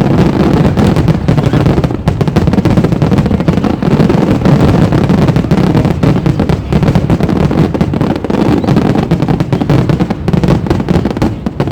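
Fireworks going off in a loud, dense, continuous barrage of rapid bangs and crackles.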